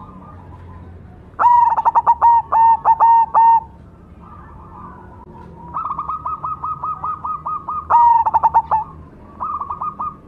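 Cemani zebra dove (perkutut) singing phrases of quick staccato coo notes. A loud phrase comes about a second and a half in and lasts about two seconds. Quieter runs of notes follow from about six seconds, with another loud phrase near eight seconds.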